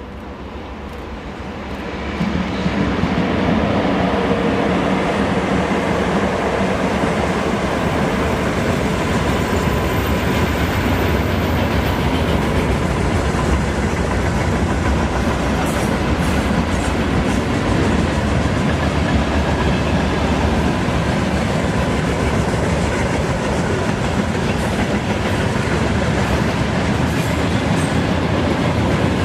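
Freight train hauled by a 2ES6 "Sinara" electric locomotive passing close by. It rises quickly over the first three seconds as it arrives, then becomes a steady loud rumble of the wagons rolling past.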